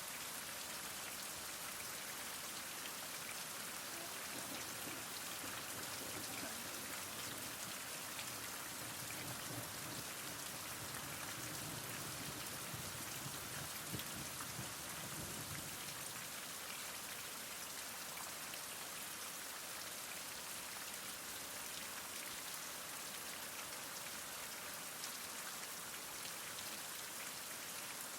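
Heavy rain falling steadily, a dense hiss of many fine drop patters with a faint low rumble swelling in the middle.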